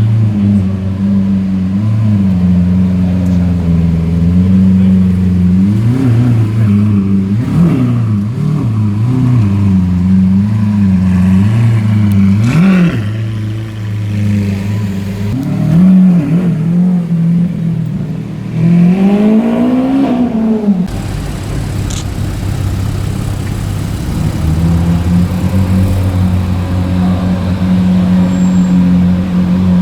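Supercar engines idling with repeated throttle blips. The revs shoot up and fall back several times, with a longer rev near the two-thirds point, then the engine note settles back to a steady idle.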